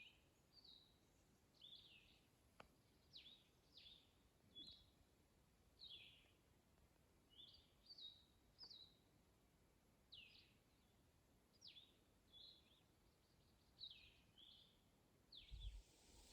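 Faint, repeated short high bird chirps, many sliding quickly downward in pitch, coming irregularly about once a second.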